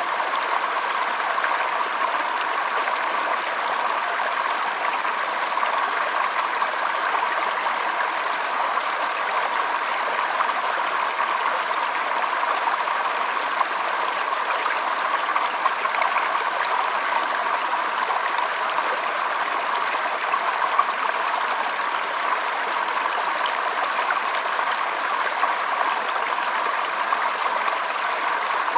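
Shallow stream trickling and babbling steadily over stones, a continuous splashing rush with small quick flickers of water.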